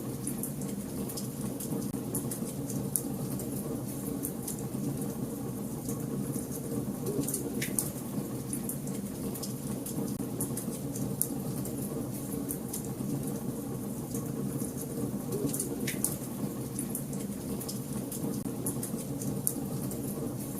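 Fire burning in a fireplace, crackling steadily over a low rushing sound, with frequent small snaps and a couple of louder pops about a third of the way in and again near the three-quarter mark.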